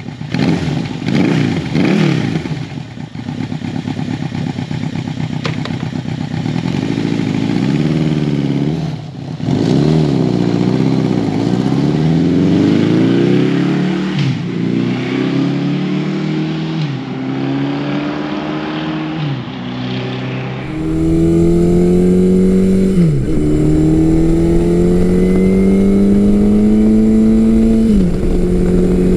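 Big-bore motorcycle engine accelerating hard through the gears, its pitch climbing and then dropping at each upshift, many times over. About two-thirds of the way in the sound changes abruptly: a steady hiss joins it and the pitch climbs are longer and slower.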